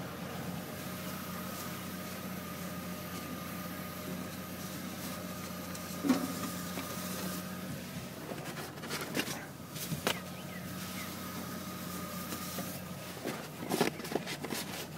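Idling car heard from the driver's seat: a steady hum, with a few short knocks and rustles of handling scattered through it.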